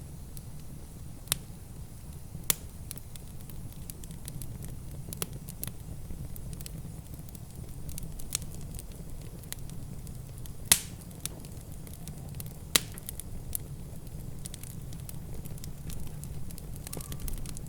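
Wood fire crackling in a fireplace: a steady low rumble with scattered sharp pops and snaps, a few of them much louder than the rest.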